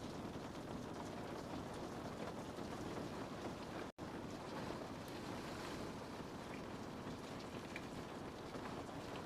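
Steady rain on a window: an even hiss with scattered drop taps. The sound cuts out for an instant about four seconds in.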